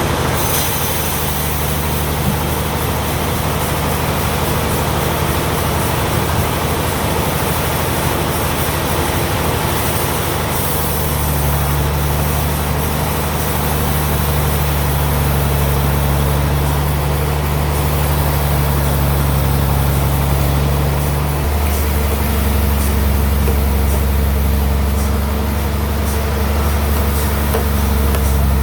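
Sawmill bandsaw machinery running with a steady, heavy low hum, its pitch stepping to a new level twice along the way.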